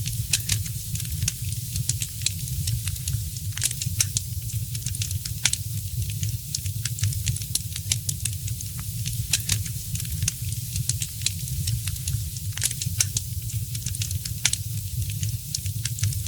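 Wood fire crackling in a fireplace: irregular sharp snaps and pops over a steady hiss, with a constant low rumble underneath.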